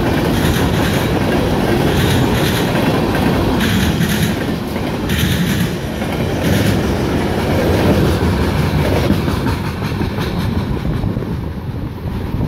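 Freight train cars rolling past close by: steady steel-wheel rumble with repeated clickety-clack as wheelsets cross the rail. The sound drops off over the last few seconds as the end of the train passes and moves away.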